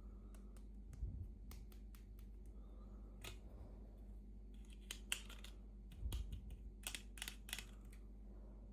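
Scattered sharp, faint clicks and ticks of small plastic toy pieces and packaging being handled, coming thickest about five to seven and a half seconds in, over a low steady hum.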